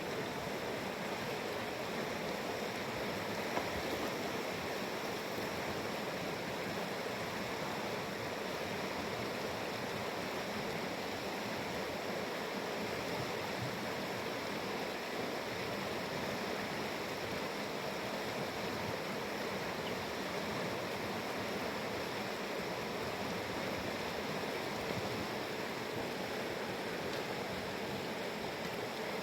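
Fast-flowing mountain river rushing steadily over rapids, a constant even roar of water.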